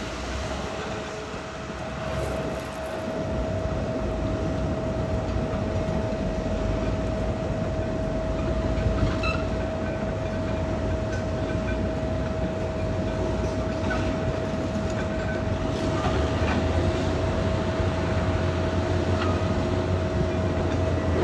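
Caterpillar D6R XL bulldozer working: its diesel engine runs steadily along with the mechanical noise of the tracks, under a constant high whine. The engine's low rumble grows stronger about three-quarters of the way in.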